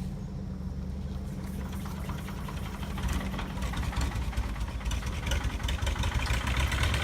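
Old tractor engine running, getting louder and busier from about three seconds in as it comes to life after a hard start.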